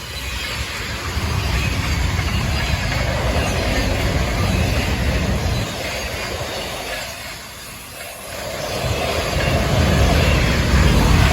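Train running on the rails with a heavy low rumble. It eases off about seven seconds in, then builds again and is loudest near the end.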